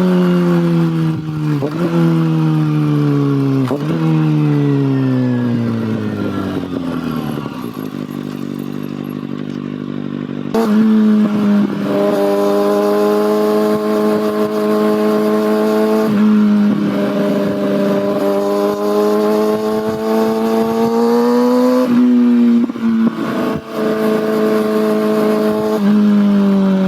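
Kawasaki ZX6R inline-four sport bike engine and exhaust on the road. The engine note falls for the first several seconds as the bike slows, with short breaks at gear changes. About ten seconds in it is suddenly loud again, and its pitch climbs slowly through the gears before falling near the end.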